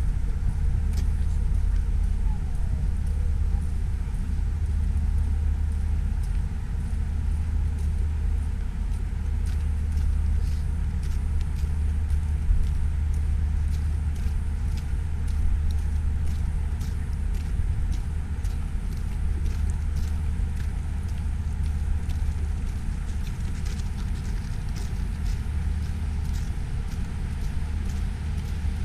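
Steady low rumble of wind buffeting the microphone during a snowstorm walk, unchanging throughout, with faint scattered ticks above it.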